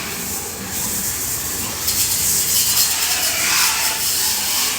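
Water spraying hard from a hose while pigs are washed down, a steady hiss that swells and fades.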